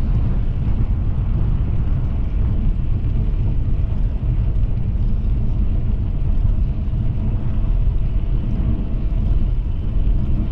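Steady low rumble of riding, with wind buffeting the microphone and no breaks or changes.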